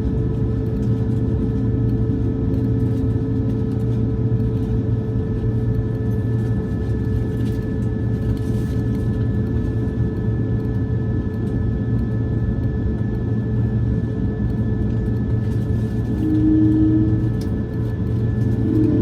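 Airbus A220-100 cabin noise with the aircraft's engines running: a steady low rumble under several steady whining tones. About 16 s in a further tone comes in briefly and the level swells, then it rises again at the end.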